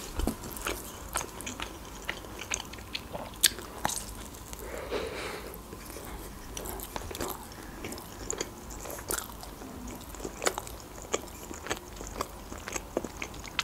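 Close-miked biting and chewing of cheese-filled khachapuri: irregular wet mouth clicks and soft crunches of the baked crust.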